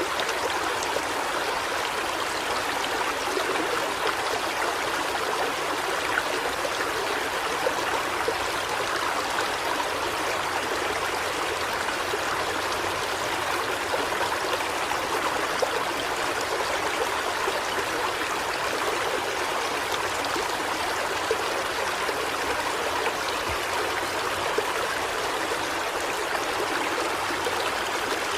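River water flowing in a steady rush, with small splashes and trickles picking out here and there.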